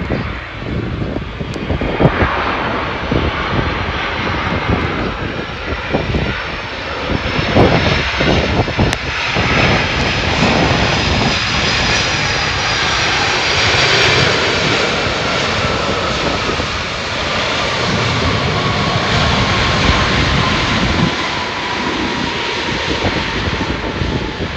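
Jet airliner passing close, its engines a loud rushing noise with a whine that slowly falls in pitch, loudest around the middle. Gusts of wind buffet the microphone.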